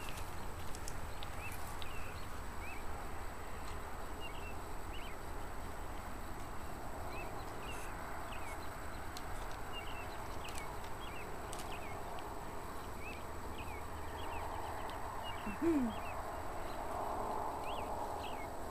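Many short, high chirps from small night-time animals, scattered throughout over a steady low hum. About three-quarters of the way through comes one brief, louder, lower call that falls in pitch.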